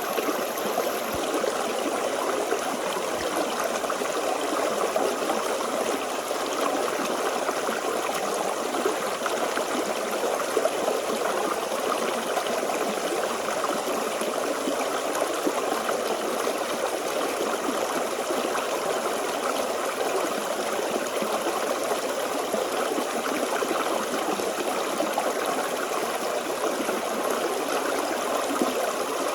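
Forest stream flowing steadily over rocks, an even babbling and trickling of water.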